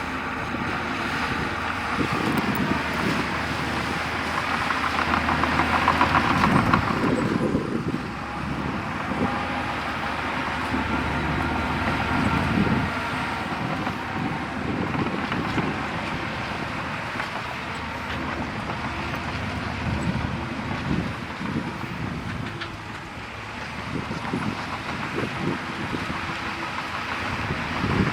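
Heavy diesel earthmoving machinery, a bulldozer pushing soil, running steadily with a louder stretch about six seconds in.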